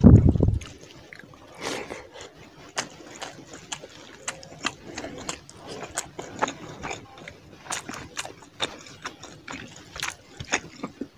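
Close-up eating sounds: wet chewing and lip smacking of fish curry and rice eaten by hand, many small clicks and squelches, with a short low thump at the very start.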